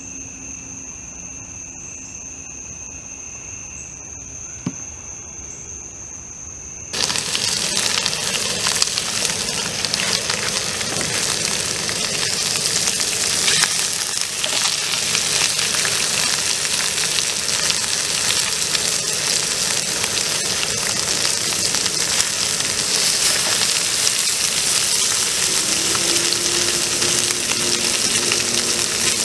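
Insects trilling steadily in the dark, then, after a sudden cut about seven seconds in, pork belly sizzling loudly as it fries in a small pot on a camp stove.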